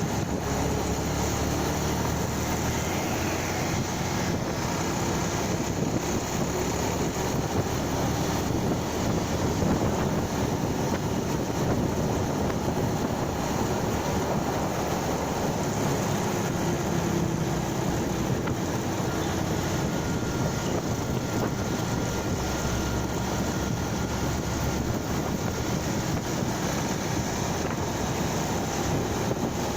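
Steady wind rush on the microphone of a motorcycle being ridden, with the motorcycle's engine running underneath.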